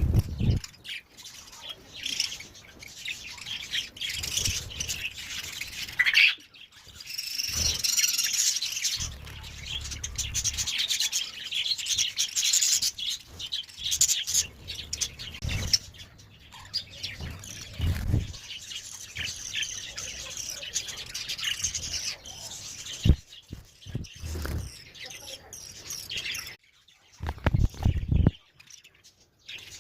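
Parrot chirping and tweeting almost without pause, with a few low thumps in between.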